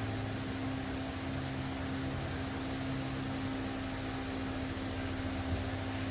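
A steady mechanical hum with a constant low tone, and a couple of faint clicks near the end.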